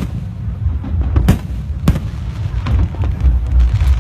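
Aerial fireworks bursting: two sharp bangs a little over a second in and at about two seconds, then fainter ones, over a continuous low rumble.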